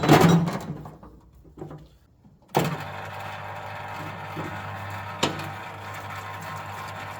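A few clunks of metal parts being handled, then about two and a half seconds in a parts washer's electric pump switches on and runs steadily with a low hum and an even hiss. A single sharp click about halfway through.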